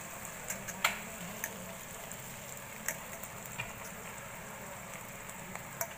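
Taro stolons (kochur loti) frying in spiced mustard paste in a metal kadai, with a steady low sizzle. A few sharp clicks of a steel spatula against the pan.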